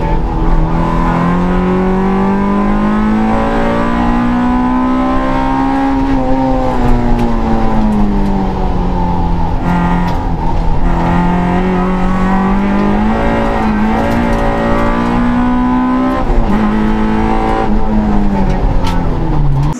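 Suzuki Swift rally car's engine heard from inside the cabin, loud throughout. Its pitch climbs and drops several times as the car accelerates, shifts and slows.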